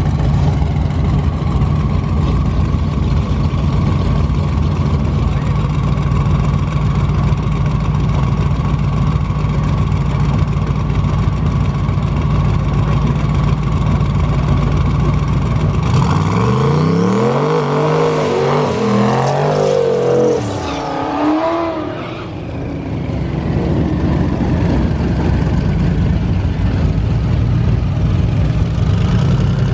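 A car engine runs steadily. About sixteen seconds in, another car accelerates hard, its engine pitch climbing and falling over several seconds, and then the steady engine sound carries on.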